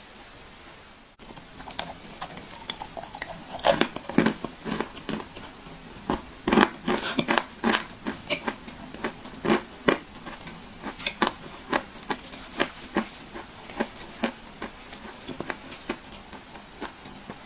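Dry clay being crunched: an irregular run of crisp cracks and crackles, starting about a second in, with the loudest snaps around the middle.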